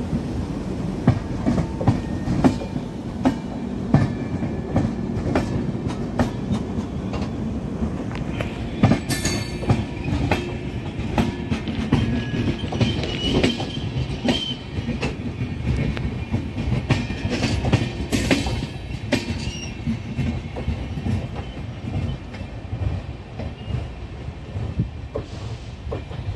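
Express train coaches rolling past close by, their wheels clacking over rail joints in an irregular stream of clicks over a low rumble. Short high-pitched squeals come through about 9 s, 13 s and 18 s in.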